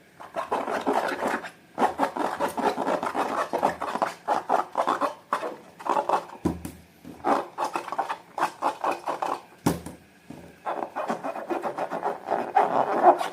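Slime being worked and squeezed by hand, a dense run of quick crackling clicks that pauses briefly now and then, with two dull low thumps, about six and a half and nine and a half seconds in.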